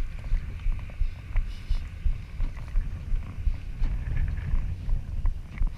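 Low, gusty rumble of wind buffeting the microphone, surging irregularly several times a second, with a few faint ticks and no steady engine note.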